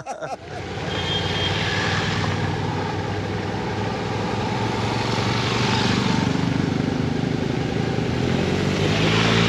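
Motorcycle engine running under way, with a steady rushing noise over it; the engine note rises near the end as it speeds up.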